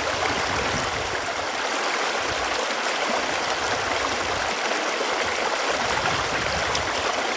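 Running water, a steady, even rushing and babbling.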